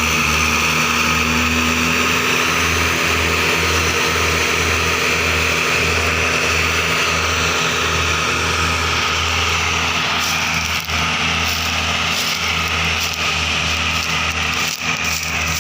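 Mahindra Arjun tractor's diesel engine running steadily with a pulsing low throb. From about ten seconds in, irregular sharp knocks and ticks come through over it.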